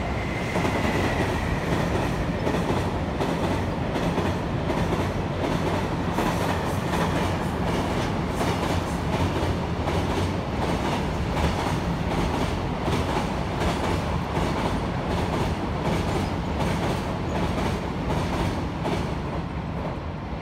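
Long freight train passing at speed on an elevated track, its wheels clattering over rail joints in a steady, even rhythm, fading near the end as the last wagons go by.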